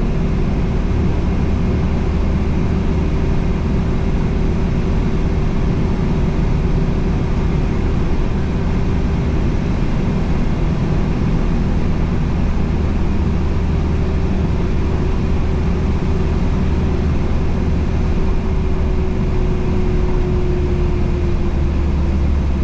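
Mazda Bongo Brawny truck heard from inside the cab while cruising on the road: a steady low engine and road rumble with a constant droning hum that dips slightly in pitch near the end.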